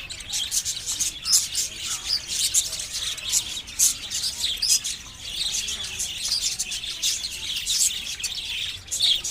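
Small birds chirping: many short, high chirps overlapping in a dense, continuous chatter.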